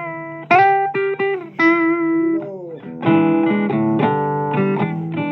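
Blues guitar playing single-note phrases with bent notes and a downward slide, then strummed chords from about three seconds in.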